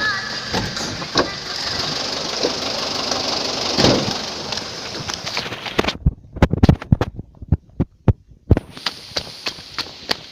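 A vehicle travelling over a rough rocky track: a steady running noise for the first few seconds, then from about six seconds in a run of sharp, loud knocks and thumps.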